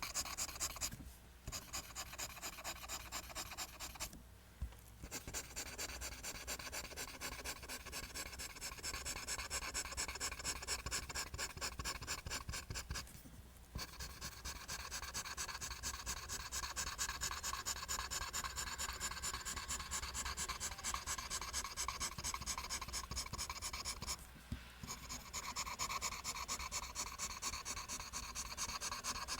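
Graphite pencil drawing lines on paper in quick, even back-and-forth strokes, a steady scratchy rhythm that stops briefly four times.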